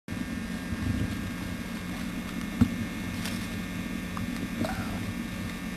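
Steady low electrical hum over tape hiss from an old camcorder recording, starting abruptly, with a single sharp click about two and a half seconds in.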